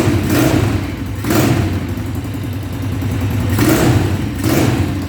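Rebuilt SMC 170 engine running, its throttle blipped briefly about four times over a steady running note.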